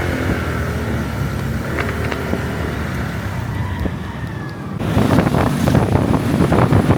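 Motor scooter riding on a road: engine and traffic noise. Wind buffeting the microphone grows louder about five seconds in.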